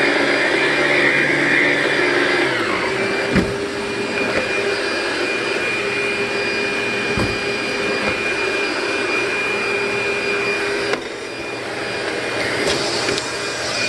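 Dual-motor commercial upright vacuum running steadily as it is pushed over an entry mat to pick up salt, with a steady whine. Its hum changes pitch about two and a half seconds in, and there are two short low thumps.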